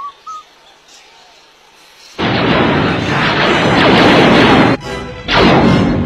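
A few short rising bird chirps, then about two seconds in a loud, sustained rushing noise sets in. The noise breaks off briefly near the end and then resumes.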